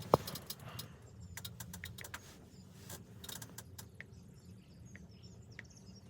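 A sharp knock just after the start, then scattered small clicks and rustles, with a few short high chirps later on.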